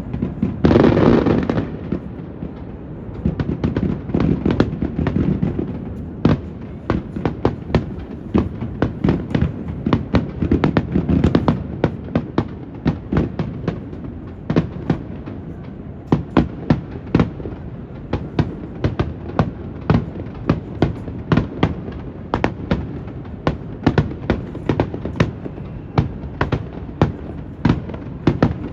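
Aerial fireworks going off: a loud, dense burst about a second in, then a rapid string of sharp bangs and crackles, several a second. Underneath runs a low rumble of wind on the phone's microphone.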